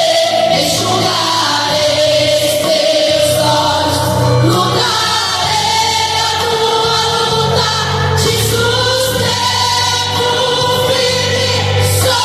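Gospel music with a group of voices singing a sustained melody over bass and percussion.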